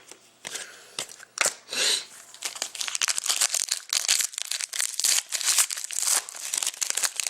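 Plastic trading-card pack wrapper being torn open and crinkled by hand: a few sharp rips early on, then continuous busy crackling.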